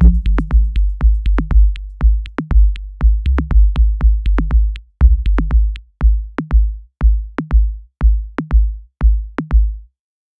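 Dub techno outro: a low synth chord drops out about a second in, leaving a bare drum-machine kick with a short click on each beat, about two a second. The beat stops shortly before the end.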